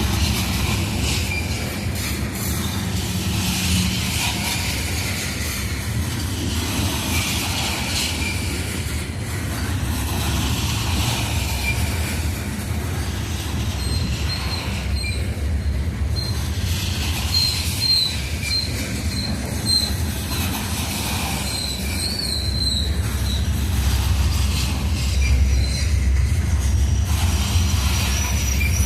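Coal train rolling past: a steady rumble of steel wheels on rail with clicks over the rail joints, and thin, high-pitched wheel squeal that comes and goes, most in the second half.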